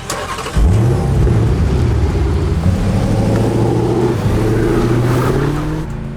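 A car engine revving hard and accelerating away. It starts abruptly about half a second in with a rising sweep in pitch, then runs loud and steady.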